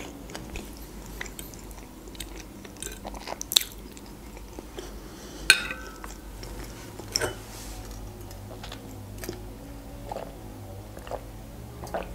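A person chewing food close to the microphone, with small wet mouth clicks, and a fork clinking sharply on a plate about five and a half seconds in.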